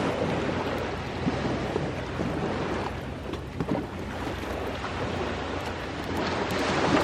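Sea waves washing onto the shore, swelling near the start and again near the end, with scattered small crackles and pops from a wood campfire.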